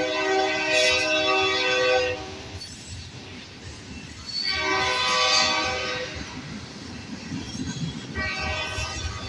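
Freight locomotive horn sounding in three blasts: one ending about two seconds in, a shorter one in the middle, and another starting near the end, over the low rumble of the passing loaded train.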